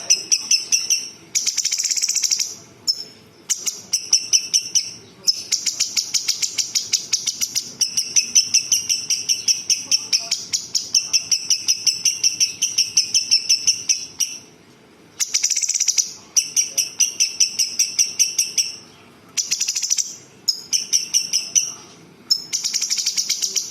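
A songbird singing long, rapid trills of repeated notes, about eight a second, in phrases several seconds long broken by short pauses.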